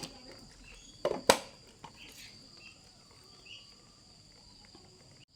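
Two sharp knocks close together about a second in, with a fainter click after, over a steady high-pitched insect trill.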